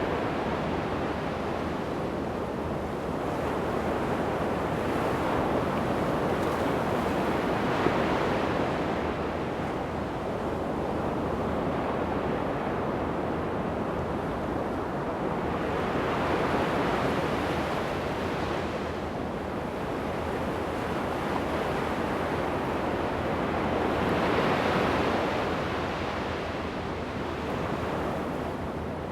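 Ocean surf breaking and washing up a sandy beach, a continuous rush that swells with each incoming wave every several seconds, with a little wind on the microphone.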